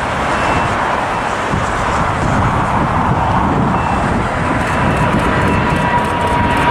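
Boeing 777 jet engines at takeoff power, a steady roar that slowly grows louder, with a high whine coming in over the second half.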